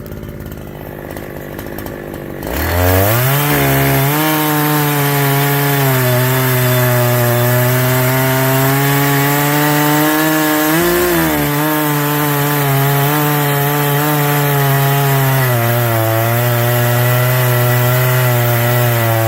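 Two-stroke chainsaw cutting wood. After a quieter start it revs to full speed about two and a half seconds in and holds high, its pitch dipping a little at times as it works under load in the cut.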